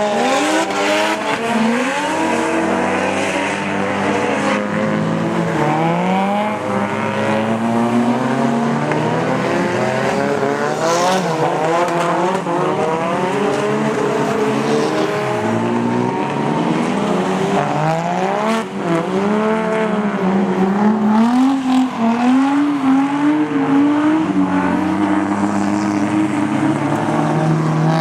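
Drift car engines revving hard, their pitch rising and falling again and again as the throttle is worked. At times more than one engine can be heard at once.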